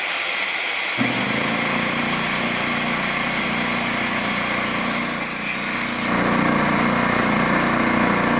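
Air hissing from a Dewalt D55146 air compressor, then its electric motor and pump kick on about a second in and run steadily. The compressor is restarting because a failed check valve lets tank pressure leak back, so it cycles on again.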